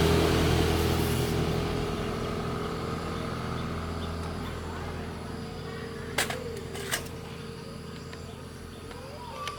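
Honda CB750 inline-four motorcycle engine running steadily, fading away gradually. Two short sharp clicks come a little after the middle.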